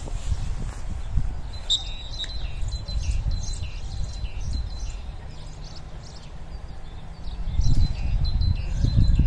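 Small birds chirping over and over in short calls, over a low rumble that grows louder in the last couple of seconds.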